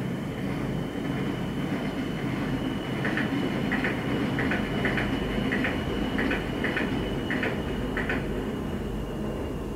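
Light-rail (LRT) train passing, heard indoors through closed soundproofing windows: a steady low rumble with a thin high whine running over it. In the middle there is a run of about nine short, evenly spaced clicks.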